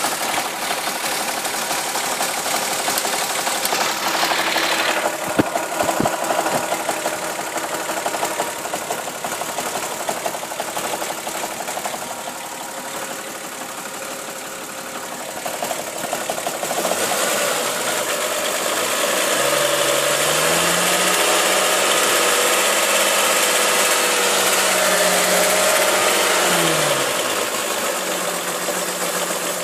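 Volkswagen VR6 engine running with an abnormal noise, which the owner suspects comes from tired hydraulic lifters, a worn timing chain tensioner or worn chain guides. It runs steadily at first, then is revved up about two-thirds of the way in, held for several seconds and let drop back near the end.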